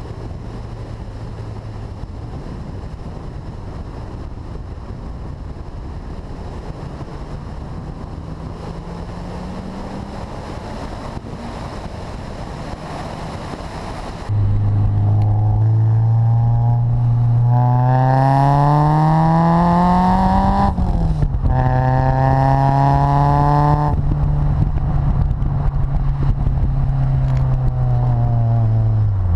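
Wind and road noise over a faint engine note, then, about halfway, the Renault Clio Sport 172's 2.0-litre four-cylinder engine comes in loud and accelerates hard. Its pitch climbs steadily, drops sharply at a quick upshift, and climbs again before holding steady.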